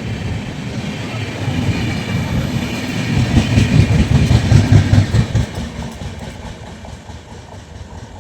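Indian Railways express train passing at speed, a heavy rumble of wheels on track that swells to its loudest about halfway through, then fades as the train moves away.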